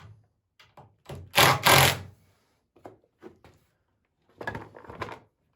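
Workshop handling noise: two loud, short clattering knocks about a second and a half in, then scattered small clicks and a softer bout of knocking and rustling near the end.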